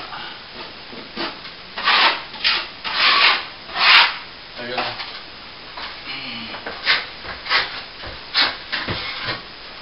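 A plaster wall being sanded down by hand, in a series of irregular rasping strokes.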